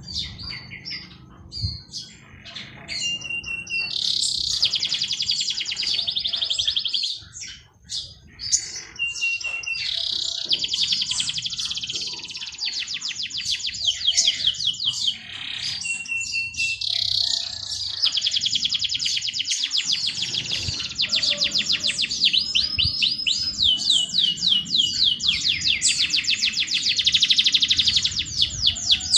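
A songbird singing long, very rapid trilled phrases, each lasting several seconds with short pauses between, the longest and loudest filling the second half.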